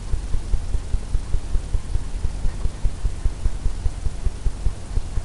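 A paintbrush working oil paint on a stretched canvas, the taut canvas giving a rapid, even run of soft low thuds about four a second.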